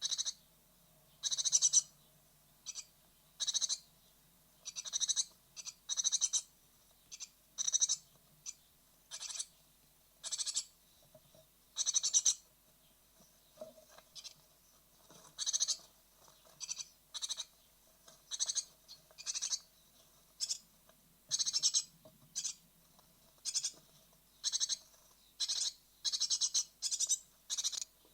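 Great tit nestlings near fledging calling in the nest box: short, high calls repeated about once a second, sometimes two or three in quick succession.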